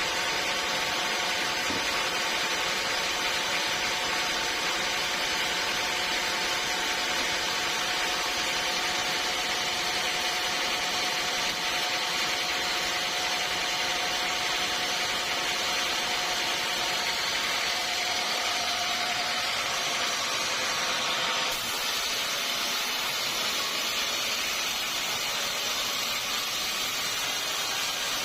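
Sawmill saw running steadily through a teak log. A steady whine sounds over the cutting noise and drops out about three-quarters of the way through, where the sound changes.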